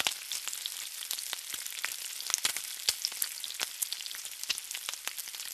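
Food frying in hot oil: a steady sizzle with many irregular crackles and pops.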